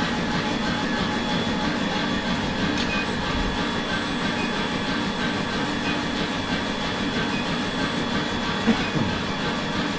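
Steady running noise of forge workshop machinery, with no hammer blows and one light knock near the end.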